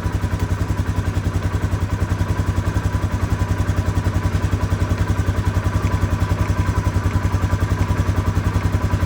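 Polaris Sportsman 570 ATV's single-cylinder engine idling with a steady, even pulsing beat.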